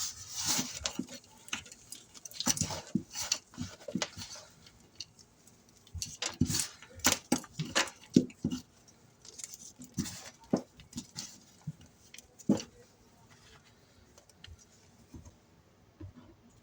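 Saved Comet cleanser powder being worked on a sponge: irregular crunchy crackles, taps and short gritty scrapes in clusters, thinning out near the end.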